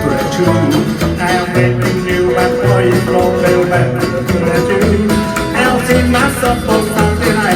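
Live band playing an instrumental passage of a fast, twangy guitar-driven song over a steady bass line.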